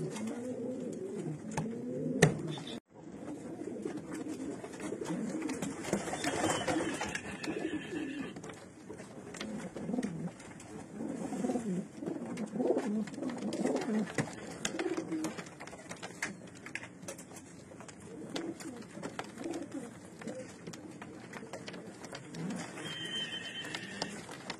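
Several racing pigeons cooing, their low rolling coos overlapping one another, with a brief break just before 3 seconds in.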